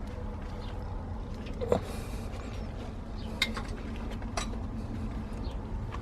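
Sharp metallic clinks of tools and engine parts being handled, two of them about a second apart in the middle, over a steady low hum.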